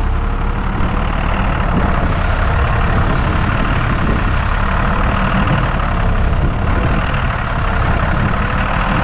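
Forklift engine running steadily with a low rumble while the machine handles a crate of firewood.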